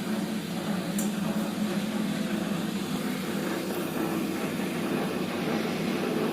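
IFB microwave oven running in convection mode, its fan and heater giving a steady hum while the garlic bread bakes at 200 degrees.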